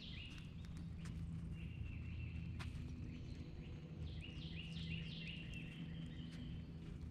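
A songbird singing phrases of quickly repeated slurred notes: one run at the start, and another from about four seconds in. Underneath is a steady low hum, with a sharp click near the middle.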